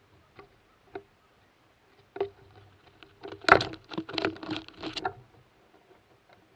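Close-up taps, knocks and scrabbling of an animal feeding at a bird feeder. A few single knocks are followed, about three seconds in, by a quick flurry of rapid tapping that lasts nearly two seconds.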